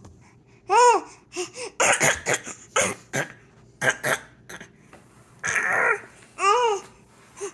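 Playful non-speech vocal noises: short squeals that rise and fall in pitch, mixed with breathy, laugh-like huffs, in quick bursts with short pauses between.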